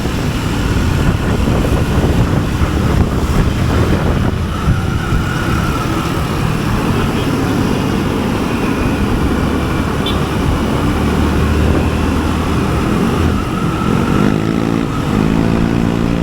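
A motorcycle running while being ridden through city traffic, with heavy wind noise on the microphone; near the end the engine note climbs as it speeds up.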